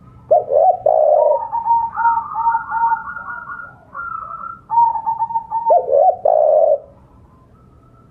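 Spotted dove cooing its territorial call, two low phrases about five seconds apart, with a higher, trilling call running between them.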